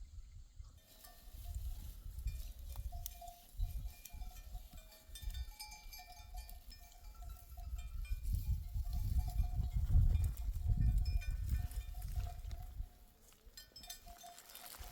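Bells on a grazing flock of sheep clinking and ringing on and off from about a second in, over a low, uneven rumbling that is loudest around ten seconds in.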